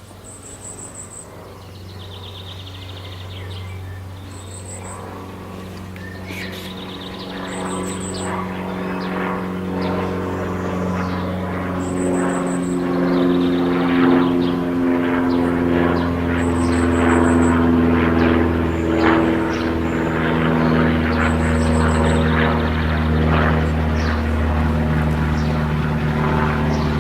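A steady, low engine drone from an approaching train, growing gradually louder, with its pitch stepping up about halfway through. Short high chirps repeat over it.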